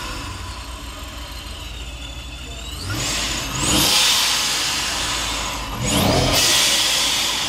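Engine fitted with a ProCharger centrifugal supercharger idling, then revved twice, about three and six seconds in, with a whine that rises in pitch with each rev.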